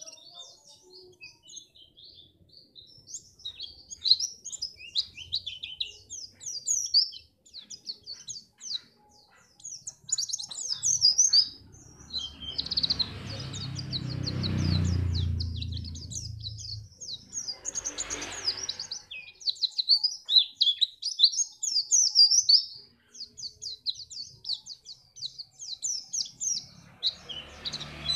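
White-eye (pleci) singing: a fast, continuous twittering song of high chirps and trills, with short breaks. A rushing noise with a low rumble rises and fades about halfway through, and a briefer one follows.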